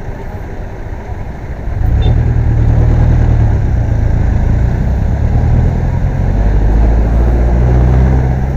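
Road vehicle noise while riding through city traffic: a low engine-and-road rumble that gets much louder about two seconds in and stays loud.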